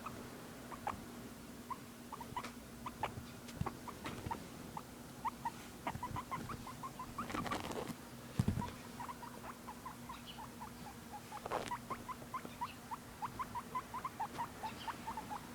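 Guinea pig making a string of short, quick squeaks, coming faster in the second half. About halfway through there is a louder rustle and a thump.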